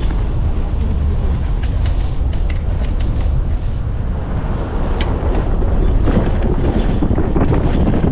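Wind buffeting the microphone as a loud, uneven low rumble, with faint scattered clicks and rustles over it.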